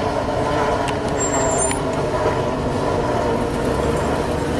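Norfolk Southern freight train's rear cars rolling away down the track: a steady rumble of wheels on rail with several faint steady whining tones from the wheels.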